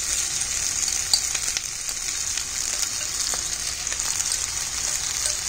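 Chilli mushrooms and sautéed onions and peppers sizzling in olive oil in a wok over high heat: a steady hiss with scattered crackles, and a sharp click about a second in.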